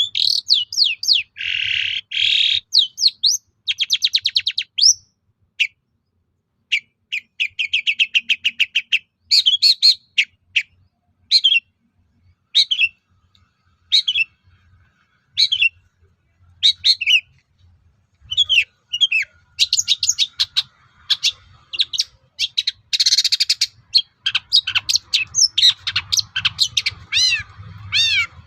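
Long-tailed shrike (cendet) singing a fast, varied song of chirps, quick trills, sweeping whistled notes and harsh rasping bursts, with short pauses along the way. The song strings together calls mimicked from other birds.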